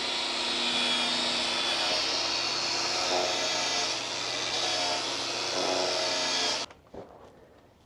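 A machine, most like a power tool, running at a steady pitch and then cutting off abruptly near the end.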